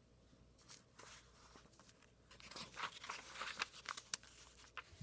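Faint, intermittent rustling and crinkling handling noise, growing busier about halfway through.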